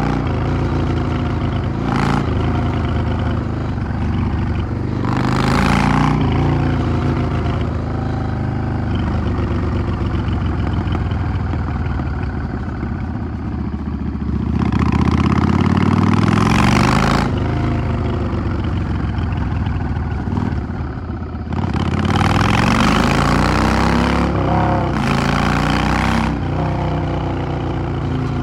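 Yamaha XVS 650 bobber's air-cooled V-twin engine on the move, its pitch rising and falling as it accelerates and eases off, with several louder rushes of noise while it pulls.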